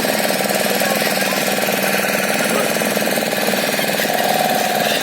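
Motorboat engine running steadily with a fast, even knocking pulse.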